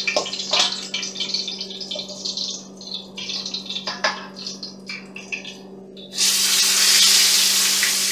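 Metal tongs clicking and scraping against a stainless steel bowl, then about six seconds in a pork chop goes into hot cooking oil in a small frying pan and starts sizzling loudly and steadily. A steady low hum runs underneath.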